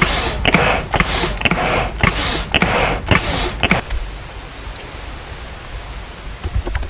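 Handmade double-acting piston air pump for a furnace being worked back and forth, each stroke pushing out a rush of air with a faint knock, about two strokes a second. After nearly four seconds the pumping stops and a quieter steady hiss remains.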